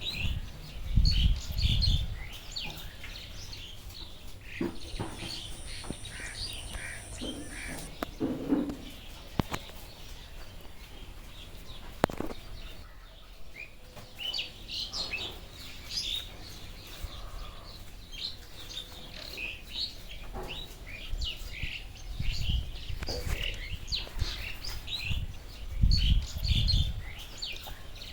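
Several birds chirping in short, repeated calls, with low fluttering thumps about a second in and again near the end.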